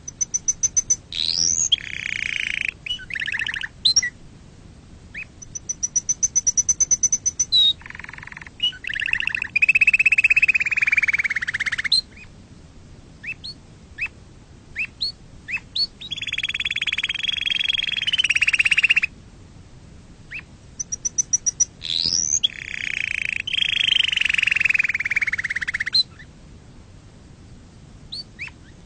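Domestic canary singing: long bursts of fast trills and rolling repeated notes, some high and thin, some lower and fuller, with quick upward and downward sweeping notes. The bursts are separated by short pauses broken by single chirps.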